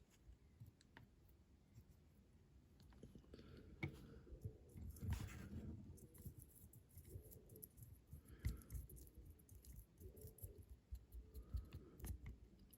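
Faint, scattered clicks and light knocks of small hobby items being handled on a workbench while a 1/64 scale diecast model is painted.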